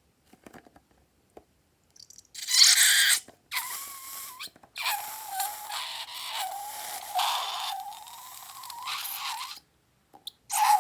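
Air squealing and hissing out of a stretched balloon neck in a wavering tone. A short loud burst comes about two seconds in, and a longer, quieter squeal runs from about three and a half seconds until shortly before the end.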